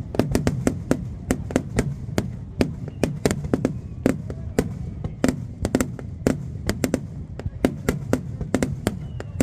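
Aerial fireworks going off in rapid succession: a dense run of sharp bangs, several a second, over a continuous low background of booms.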